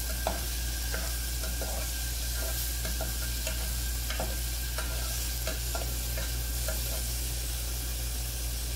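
Diced onion and tomato sizzling in olive oil in an aluminium pot, stirred with a spatula that scrapes and taps against the pot now and then.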